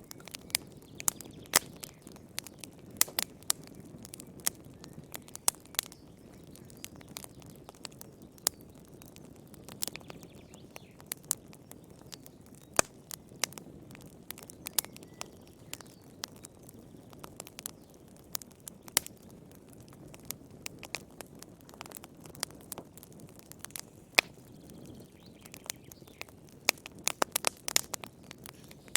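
Wood fire burning in a fireplace: a steady low rumble of flame with irregular sharp crackles and pops, which come thicker near the end.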